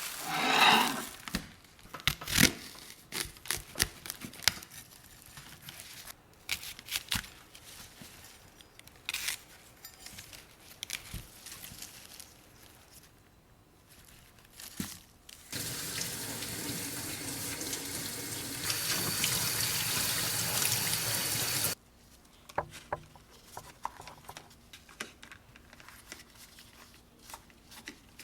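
Kitchen tap turned on and running steadily for about six seconds in the middle, then shut off suddenly. Before and after it come scattered light clicks and knocks.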